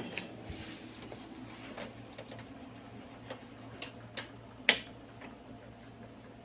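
A few scattered light clicks and taps, the sharpest one a little before five seconds in, over a faint steady hum.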